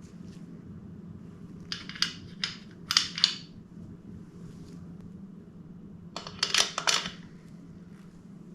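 Two short bursts of metallic clicking and clinking, a few sharp clicks each, about two seconds in and again near the end, over a steady low hum.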